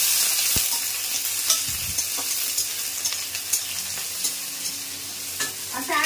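Garlic and spices sizzling as they fry in hot oil in a steel kadhai, being stirred, with occasional sharp clicks of the utensil against the pan. The sizzle is loudest in the first second.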